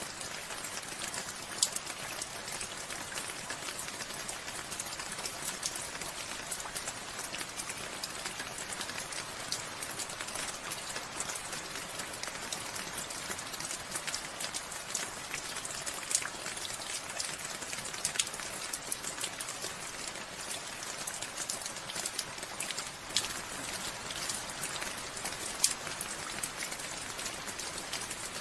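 Steady rain falling, a continuous hiss with the sharp ticks of individual drops striking a surface, a few of them louder than the rest.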